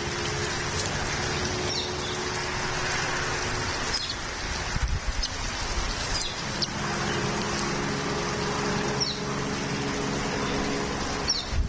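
Scattered short, high bird chirps, of the sort heard around a nest, over a steady rushing outdoor background with a low hum.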